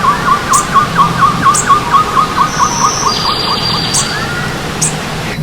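Forest birds singing over the steady rush of a running stream. One bird repeats a fast series of short chirps, about five a second, which stops about four seconds in. Other birds give thin high calls and a brief buzzy trill.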